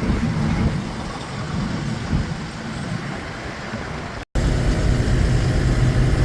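Lorry's diesel engine running with low road rumble, broken by a brief dropout about four seconds in, after which a steady engine hum.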